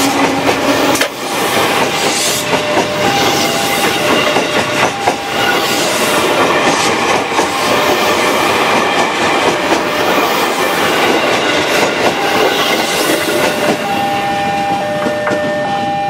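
Passenger train cars passing at close range: a dense, continuous rumble and clatter of steel wheels on the rails. Near the end a steady tone comes up as the last car goes by.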